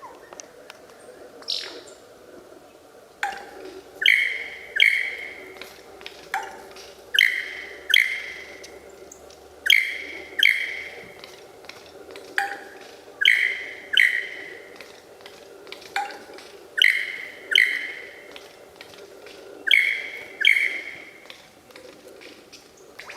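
A bird calling over and over: pairs of loud, short downward-sweeping calls, each pair led by a brief lower note, repeating about every three seconds.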